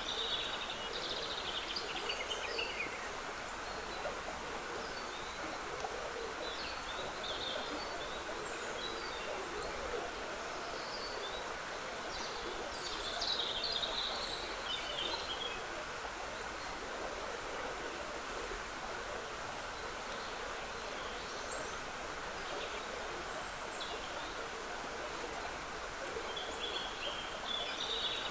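A small stream trickling steadily, with songbirds singing short phrases every few seconds over it; the loudest phrase comes about halfway through.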